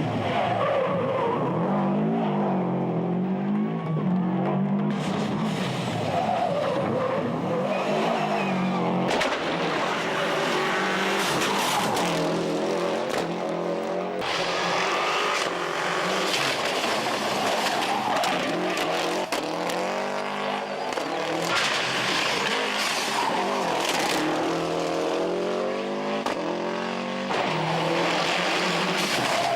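Subaru Impreza 555 rally car's turbocharged flat-four engine at full effort, its pitch rising and dropping again and again through gear changes and lifts. Over it runs a hiss of tyres skidding on the road surface.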